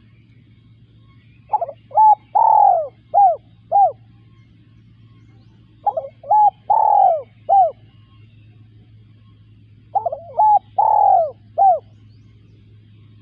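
Spotted dove cooing: three phrases about four seconds apart, each of about five coos with a longer, louder note in the middle.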